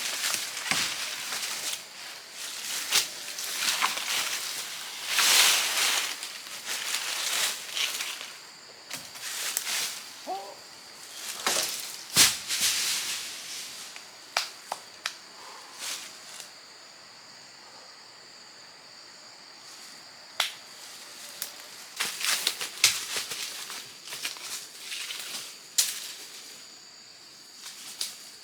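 Rustling and crackling of leaves and brush being handled, with scattered sharp snaps and knocks, over a steady high insect drone.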